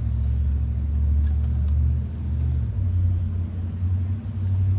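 A steady low rumble, like a motor running nearby, shifting slightly in pitch about three seconds in.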